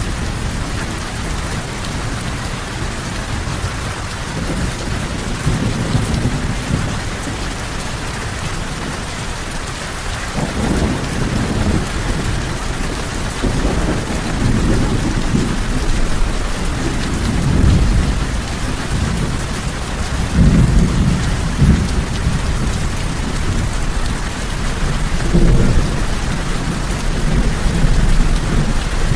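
Steady rain pouring down, with rolling thunder that begins about a third of the way in and rumbles again and again.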